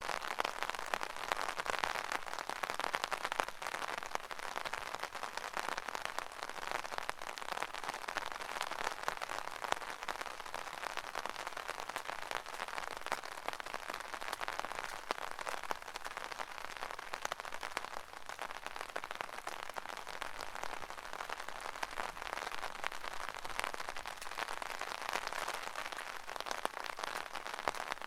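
Steady rain falling on an umbrella: a constant hiss with dense ticks of individual drops hitting the canopy.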